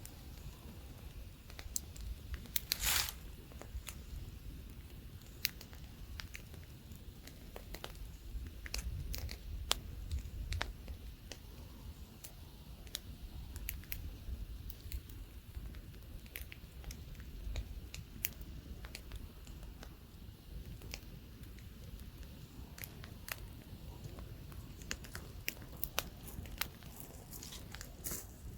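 Campfire crackling, with irregular sharp snaps and pops and one louder pop about three seconds in, over a low rumble of light wind.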